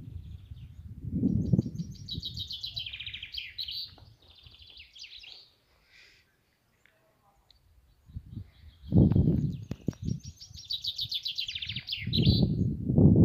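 A songbird singing two rapid trilled phrases about eight seconds apart, each dropping in pitch at its end. Bursts of low rumble come about a second in, loudest about nine seconds in, and again near the end.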